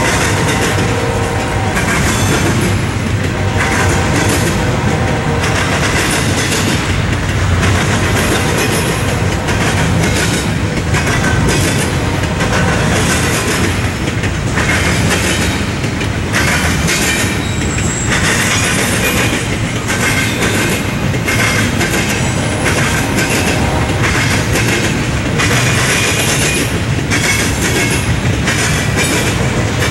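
CSX double-stack intermodal freight train rolling past, its steel wheels clacking over the rail joints in a continuous irregular stream over a steady rumble.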